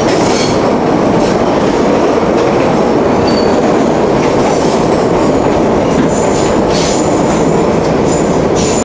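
Hershey electric train running along the track, heard from inside a passenger carriage: a loud, steady rumble and rattle of wheels on rails and the car body, with a few brief high squeals near the end.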